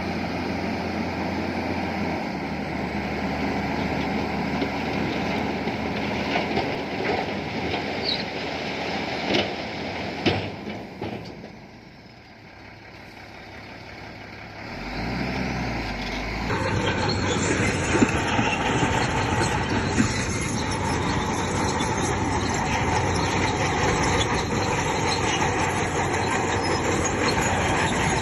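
Bulldozer working: heavy diesel engine running with its steel tracks grinding and clanking over stone. The sound drops for a few seconds just before halfway, then comes back with an abrupt change.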